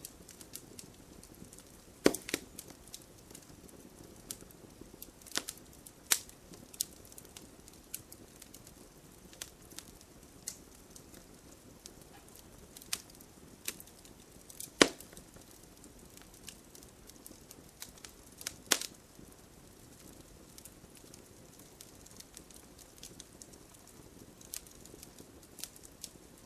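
Campfire crackling: burning wood gives off irregular sharp pops and snaps over a soft, steady background, with the loudest pops about two seconds in and a little past halfway.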